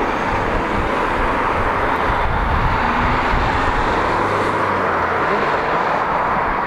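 Jet aircraft engine noise: a steady, even rushing sound with no clear changes.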